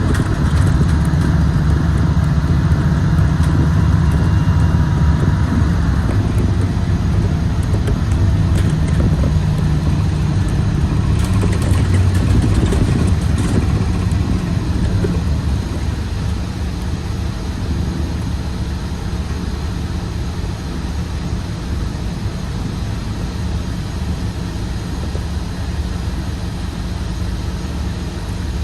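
Scania CK230UB Citywide bus's compressed-natural-gas engine running, loud with a low rumble, easing to a quieter, lower level about halfway through.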